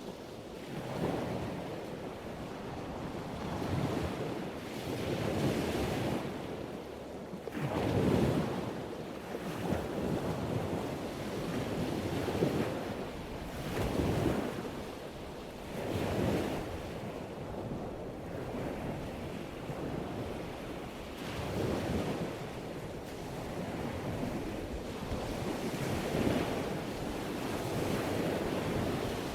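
Ocean waves washing in on a shore, the surf swelling and fading every couple of seconds.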